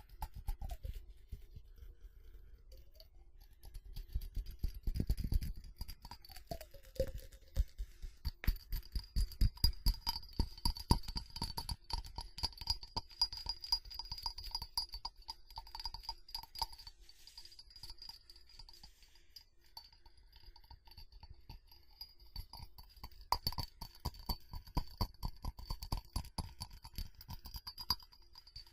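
Fast, continuous tapping and scratching by hand on a ceramic object: rapid clicks, busiest in the middle stretch and again near the end.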